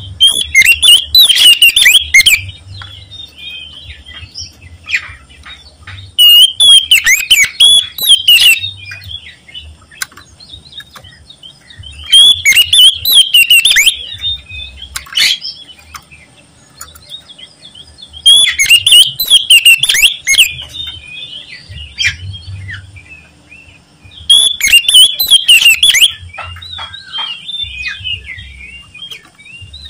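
Oriental magpie-robin (kacer) singing loudly: bursts of rapid, varied chirps and whistles about two seconds long, coming roughly every six seconds, with quieter scattered notes between them.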